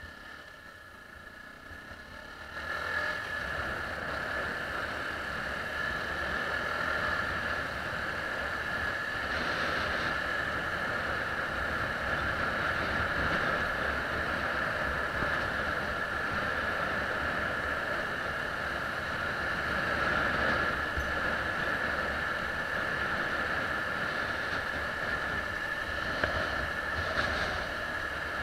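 Yamaha WR125R motorcycle's single-cylinder four-stroke engine running steadily under way, louder from about two and a half seconds in as the bike picks up speed.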